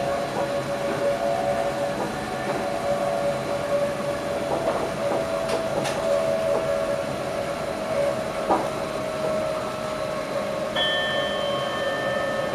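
Electric passenger train running, heard from inside the driver's cab: a steady whine with a few sharp clicks from the wheels over the rails. A second, higher tone joins near the end.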